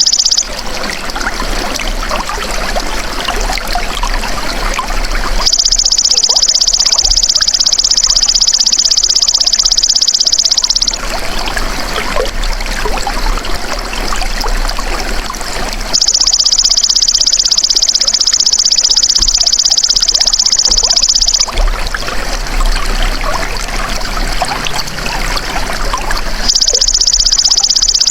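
Belalang emas insect singing a loud, high, rapidly pulsed buzz in long phrases of about five seconds, three times over, with trickling water running steadily underneath.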